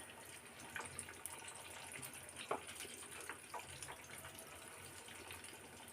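Flour-coated chicken pieces frying in hot oil: a faint steady sizzle with scattered crackles and pops.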